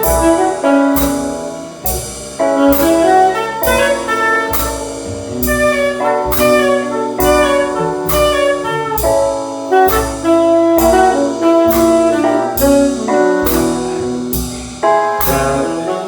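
Live jazz band playing an instrumental break with a saxophone solo over a steady beat.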